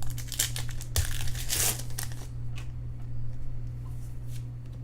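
Crinkling of a foil trading-card pack wrapper for about two seconds, then lighter clicks and rustles as the cards are handled, over a steady low hum.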